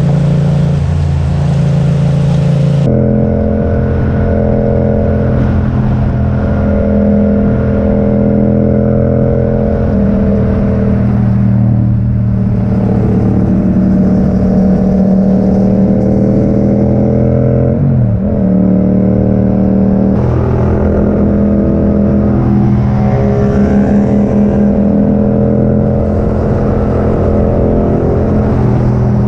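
Yamaha MT-07's parallel-twin engine running through an Akrapovic exhaust while the bike is ridden. The engine note holds steady, then rises and falls with the throttle, with a brief dip about eighteen seconds in.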